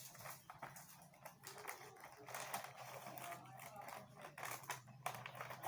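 Small plastic toy-train parts being handled: irregular light clicks, taps and rattles, over a faint steady hum.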